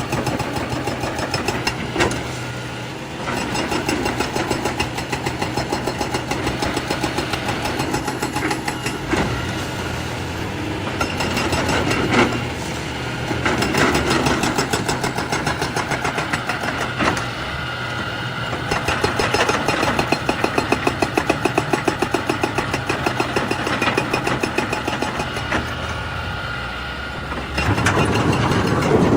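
Excavator's diesel engine running steadily, its level slowly rising and falling, with a few sharp knocks.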